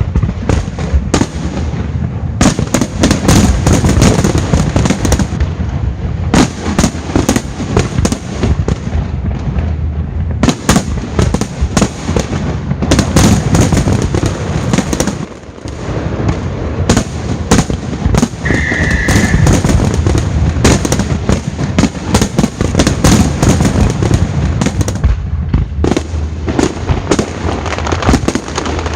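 Fireworks display: aerial shells bursting in rapid, near-continuous bangs and crackles, with a brief lull about halfway through.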